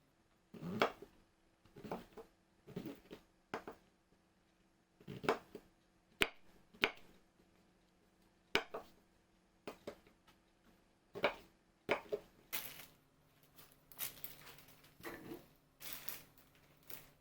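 Kitchen work sounds: irregular knocks, clicks and short rustles of utensils, dishes and ingredients being handled, over a faint steady hum.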